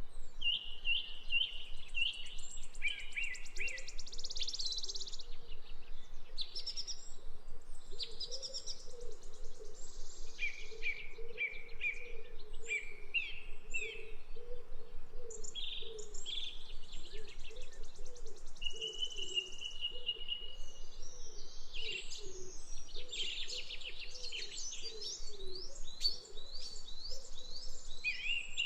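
A small bird chirping: runs of quick, repeated high chirps and short trills, broken by brief pauses.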